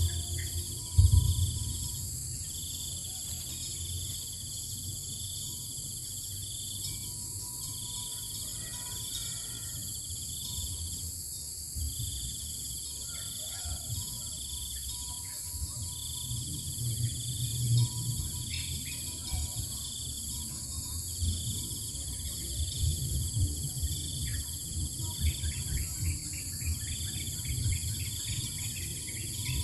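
Insect chorus: a trilling chirp repeating in runs of about two seconds with short breaks, over a steady high-pitched insect buzz, with a low rumble underneath.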